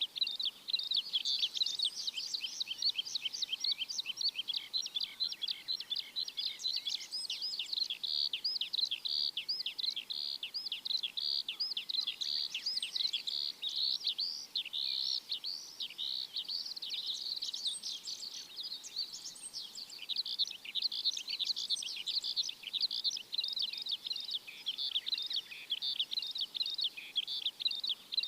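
Many birds chirping together in a busy, continuous chorus of rapid high chirps that overlap without pause.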